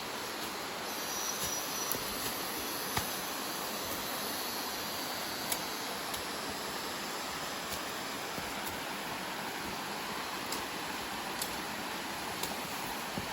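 Steady rushing noise of falling water, with a few faint sharp clicks over it.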